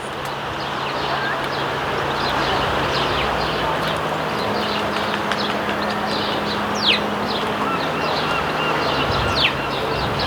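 House sparrows chirping in a hedge, many short chirps in quick succession with two sharp downward notes near the middle and the end, over steady background noise and a low hum.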